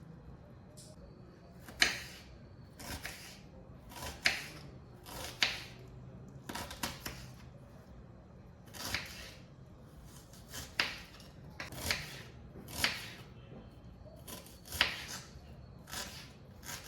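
A run of sharp taps and clicks from kitchen work, about one a second and slightly irregular, a few with a faint ringing after them.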